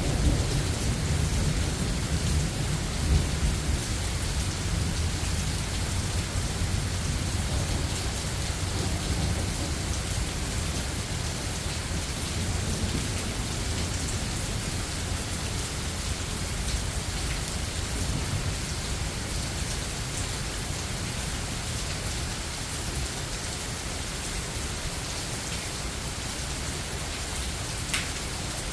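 Steady rain hiss with a low rumble of thunder, strongest at the start and dying away over the first few seconds; a single sharp tick near the end.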